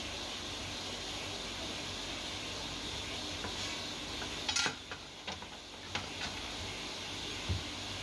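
Steady machine hum with a hiss. About halfway through comes a short, loud burst of noise, then a few sharp clicks and a single low knock near the end.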